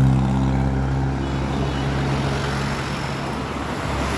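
Car engine running with a steady low hum that fades over the first couple of seconds, leaving a rumble of road and traffic noise.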